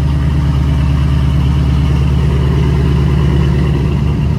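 Swapped-in 5.3-litre LS V8 engine idling steadily, a loud, even low rumble.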